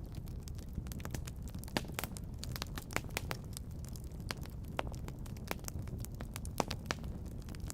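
Wood fire crackling in a fireplace: irregular sharp pops and snaps, several of them louder, over a steady low rumble of the flames.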